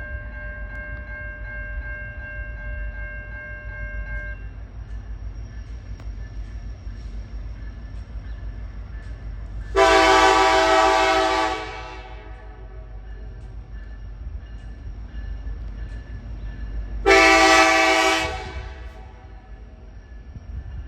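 Diesel locomotive air horn on a CN SD70M-2 sounding over a low steady rumble. A fainter held blast stops about four seconds in. Then come two loud chord blasts, a long one about ten seconds in and a shorter one about seventeen seconds in.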